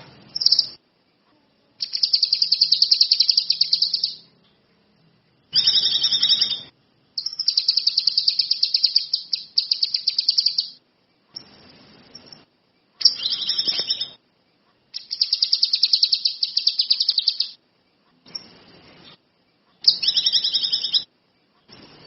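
A songbird singing in fast, high trills, phrase after phrase of about one to two and a half seconds with short pauses between. This is vigorous 'gacor' song of the kind recorded to tutor other birds.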